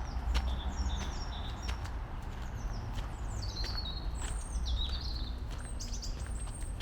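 Small songbirds chirping: quick runs of short, high, downward-sweeping calls that grow busier in the second half, over a steady low rumble of background noise, with light footsteps on a path.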